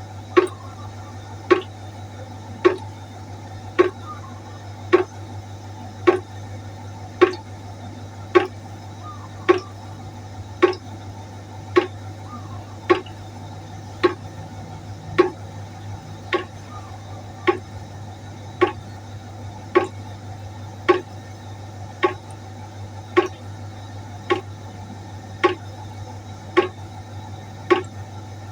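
Water droplets falling into a pot, one plinking drip about once a second in a steady, even rhythm, over a constant low hum.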